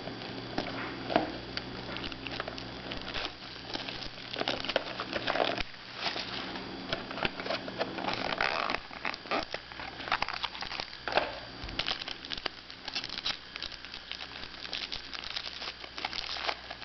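Crinkling and crackling of a trading-card pack's wrapper being opened by hand, with irregular rustles and small clicks as the wrapper and cards are handled.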